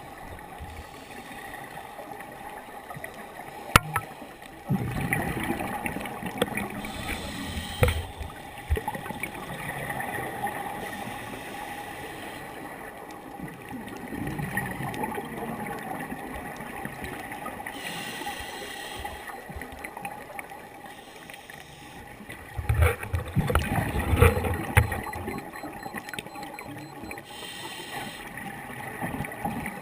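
A scuba diver's regulator heard underwater: a slow breathing cycle of bubbling exhalations and short hissing inhalations, about three breaths, with a faint steady hum underneath.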